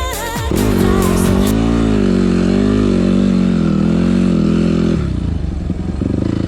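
Yamaha WR250F enduro motorcycle's single-cylinder four-stroke engine running, its pitch wavering up and down, as music ends in the first second or so. About five seconds in the sound changes abruptly to a harder, rapidly pulsing engine note.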